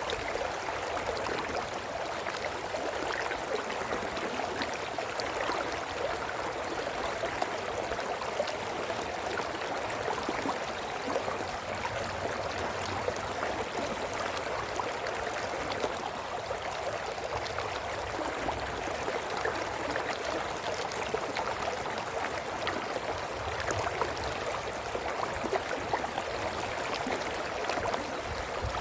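Brook water running and burbling over stones, a steady rush with fine splashy crackle.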